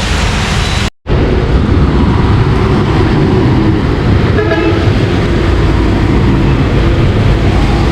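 Heavy rain mixed with the steady rumble of road traffic on a wet road, a vehicle passing close. The sound cuts out briefly about a second in, and a short pitched toot, like a horn, comes about four and a half seconds in.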